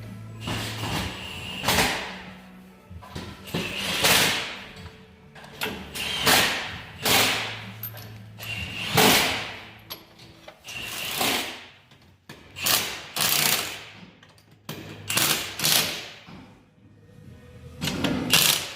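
An irregular series of about a dozen knocks and thumps, with a steady low hum under some of them.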